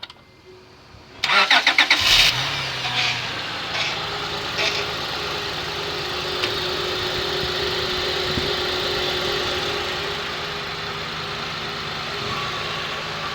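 Acura TL engine cold-started: the starter cranks for about a second before the engine catches and settles into a fast idle with a steady whine that eases off near the end. This cold-start noise, which the owner says goes away after about five minutes of driving, is of unknown cause.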